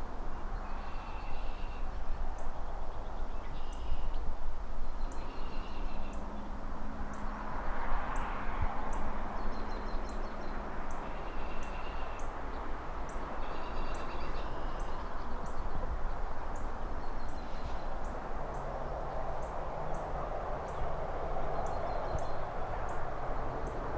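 Distant city traffic as a steady wash of noise, swelling as cars pass about a third of the way in and again near the end, with a bird repeating a short chirping call every second or two and faint high ticks about once a second.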